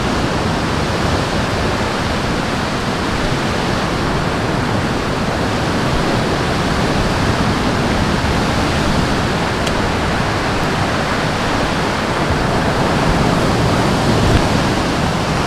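A steady, even rushing noise, loud and unbroken.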